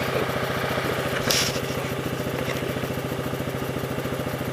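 Dirt bike engine idling steadily with an even, fast pulse; a short hiss about a second in.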